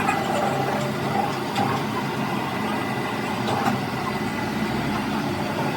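Steady mechanical running noise with a low hum and a few light knocks.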